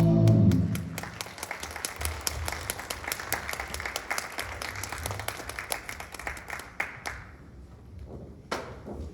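Audience applauding as a musical number's last chord dies away in the first second; the clapping runs for about seven seconds, then thins to a few stray claps.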